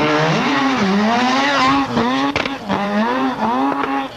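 Group B Mazda RX-7's rotary engine revving hard under load, its pitch climbing and dropping back several times. A few sharp cracks come about two and a half seconds in.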